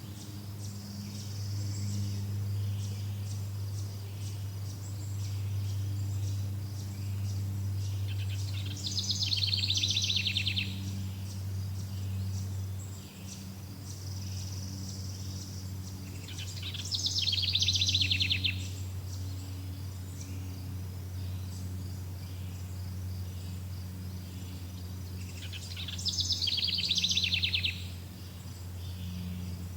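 A songbird singing a fast trilled phrase three times, each about a second and a half long and some eight seconds apart, over steady insect chirring and a low, steady hum.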